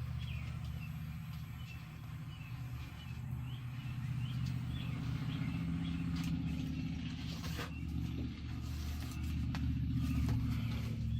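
A vehicle engine running steadily at idle, a low hum that grows a little louder about four seconds in. Faint short high chirps sound over it for the first several seconds.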